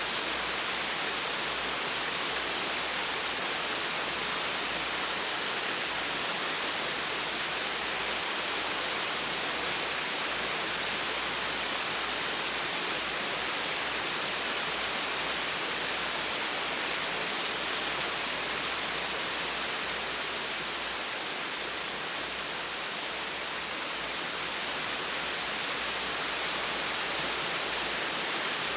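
Small waterfall splashing, a steady even rush of falling water with no other sounds.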